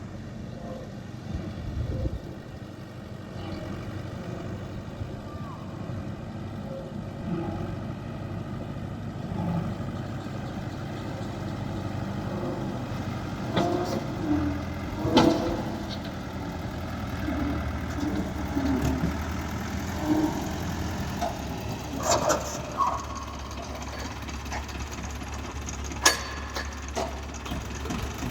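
Tractor diesel engine running steadily at idle, with scattered knocks and clanks and two sharp knocks, one about halfway through and one near the end.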